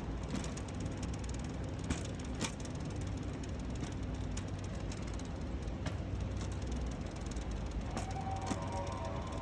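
Steady low rumble of a moving vehicle, with scattered light clicks and knocks.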